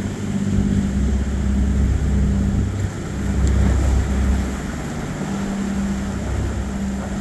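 A passing boat's engine drones steadily, a low hum over a deep rumble that eases a little after about four seconds. Wind noise on the microphone runs under it.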